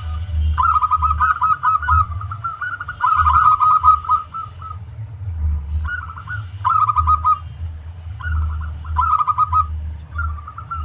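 Zebra dove (perkutut) cooing: repeated phrases of rapid staccato coos, about five phrases with short gaps between them, over a steady low rumble.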